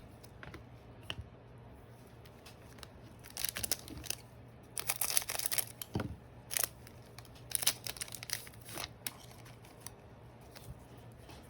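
Trading cards and their foil pack being handled: paper and foil rustling and crinkling in several short bursts, the longest about five seconds in.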